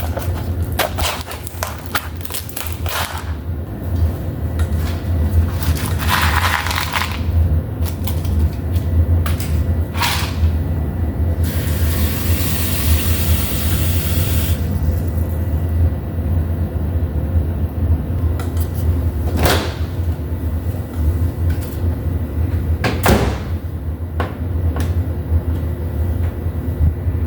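Microwave oven running with a steady low hum, heating macaroni in water, with a few clicks and knocks and a brief hiss about halfway through.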